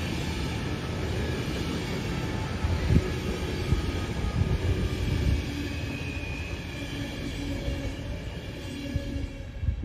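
A train running past: a steady rumble of wheels on the rails, with a few louder knocks near the middle.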